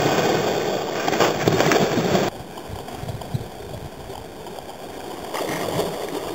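Running water, a steady rushing noise. It cuts abruptly to a quieter rush about two seconds in.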